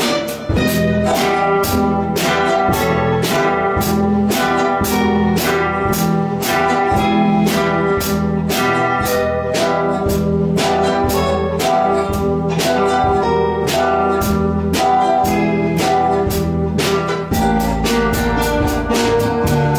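A guitar ensemble playing a lively instrumental piece, with many sharp plucked notes in a quick, steady rhythm.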